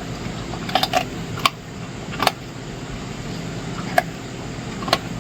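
A dog chewing raw bones: a handful of sharp, irregular cracks and crunches over a steady low hum.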